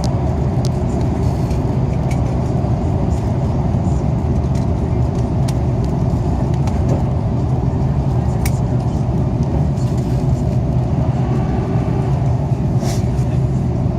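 Steady rumble of engines and airflow inside the cabin of an Airbus A330 airliner, with scattered small clicks.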